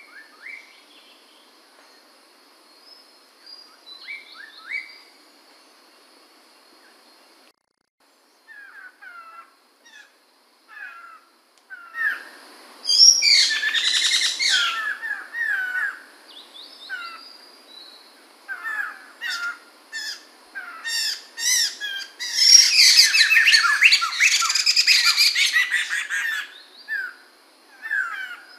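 Chestnut-capped laughingthrush (poksay mantel) calling and singing. There are scattered short chirps at first, then from about halfway in come loud bursts of rapid, varied song, densest near the end.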